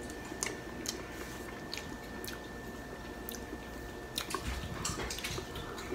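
Close mouth sounds of a person chewing a bite of a fried chicken buffalo mac and cheese wrap with ranch, with small irregular clicks of the mouth scattered through.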